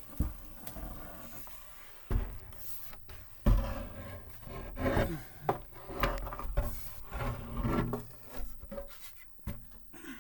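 Wooden part of a spinet piano being wrestled loose and handled: wood rubbing and scraping, with several knocks, the loudest about three and a half seconds in.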